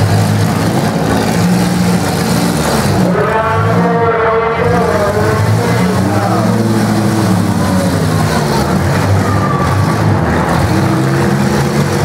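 Demolition derby car engines running loudly and revving up and down, their pitch rising and falling several times.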